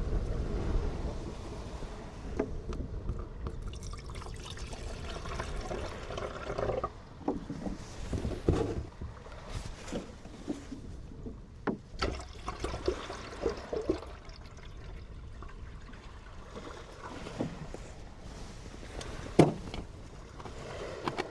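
Irregular knocks, clicks and rustling from things being handled, over a low, steady outdoor background, with one sharper knock near the end.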